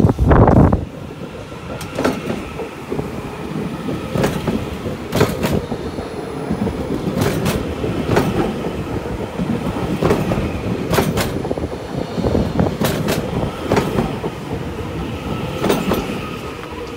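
A Class 397 electric multiple unit pulls out and rolls past, its wheels clicking over rail joints in pairs every second or two over a steady rumble and hum. A heavy thump comes at the very start.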